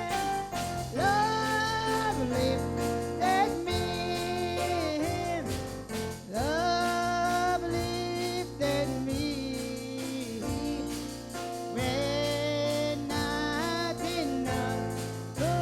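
Gospel music: a singer holding long notes over a band accompaniment with a steady bass.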